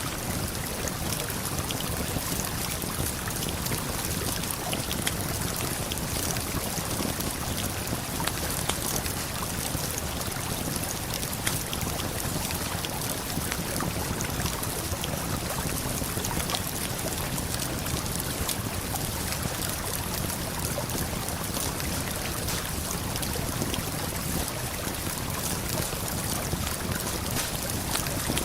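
Steady rushing of a river and waterfall, with small sharp crackles of a campfire scattered through it.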